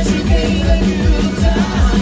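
Live band music: a rock song played by an acoustic-style band, driven by a steady kick drum beat of about three thumps a second.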